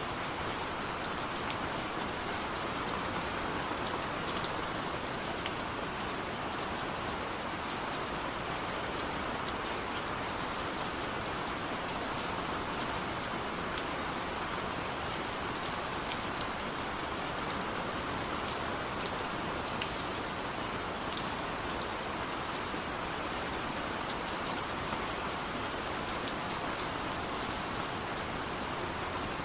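Steady rain falling: an even, unbroken hiss with scattered sharp drop ticks throughout.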